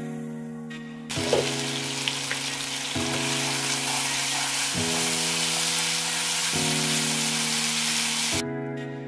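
Chicken pieces sizzling as they fry in a red sauce in a frying pan. The sizzle starts suddenly about a second in and stops near the end, over background music.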